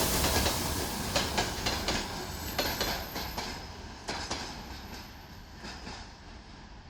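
A train rolling past and receding, its wheels clicking over the rail joints, the rumble and clatter fading steadily away.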